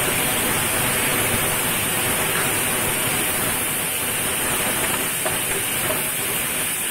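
Chopped tomatoes and green chillies sizzling in hot oil in a stainless-steel wok with the tempering of onion, curry leaves and dried red chillies, stirred with a spatula: a steady hiss with a few faint ticks.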